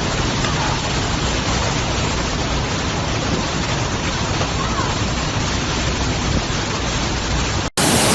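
Storm wind blowing hard, with rain, as a steady, even rushing noise on a phone microphone. It breaks off sharply near the end and a louder gust of the storm starts straight after.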